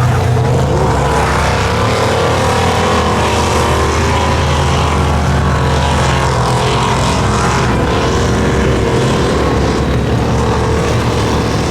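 A mud truck's engine running loud and steady.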